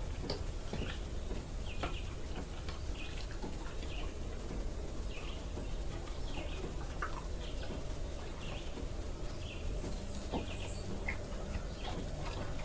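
Birds chirping, a steady series of short chirps, one or two a second, over a steady low rumble.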